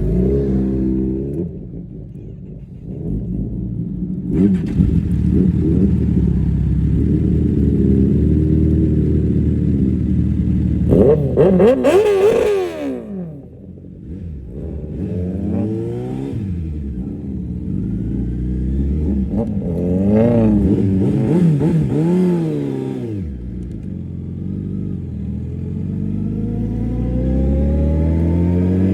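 Sport-bike engines with Racefit aftermarket exhausts revving hard in a tunnel, the pitch rising and falling repeatedly. The loudest moment, about eleven seconds in, is a bike passing with a quick rise and a falling sweep of pitch. Further rev swells come at about fifteen and twenty seconds.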